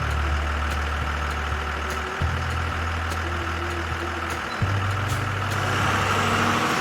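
Motor vehicle engine running steadily, a low hum that steps to a new pitch about two seconds in and again a little after four and a half seconds, over a hiss of traffic noise.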